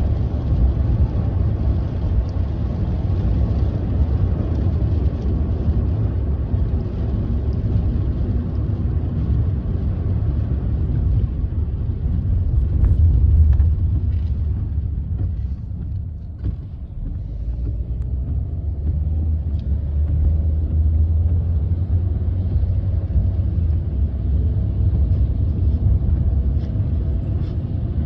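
Road noise heard inside a moving car: a steady low rumble of engine and tyres that drops quieter for a few seconds past the middle, then picks up again, with a few faint ticks.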